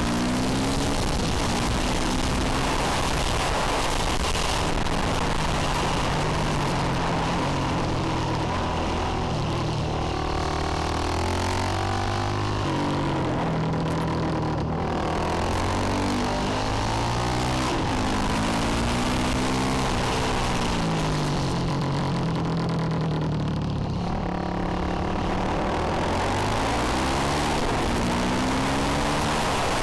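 2009 Honda CRF450X supermoto's single-cylinder four-stroke engine pulling hard through the gears around a track, its pitch climbing again and again and falling back off the throttle, most deeply about halfway through and again near three quarters in. A rush of wind over the microphone runs under the engine.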